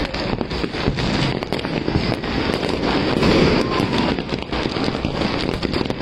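Fireworks and firecrackers going off in a continuous rapid barrage of cracks and bangs, many overlapping.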